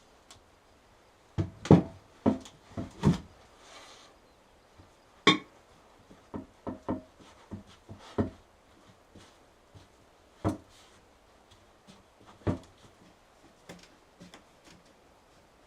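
Hard objects being handled and set down, giving irregular knocks and clatter: a quick cluster between about one and three seconds in, then scattered single knocks.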